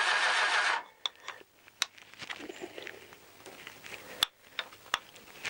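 Starter motor cranking the Honda CBR1000F's four-cylinder engine with its spark plugs out, for a spark test at the plugs. The cranking cuts off suddenly under a second in, followed by a few sharp clicks and taps.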